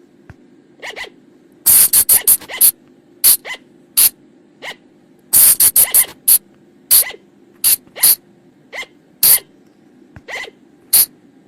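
Sunda colugo (flying lemur) calls: a rapid, irregular series of short, sharp, high-pitched squeaks, some in quick clusters of three or four, over a faint steady low hum. These are lure calls used to draw colugos in at night.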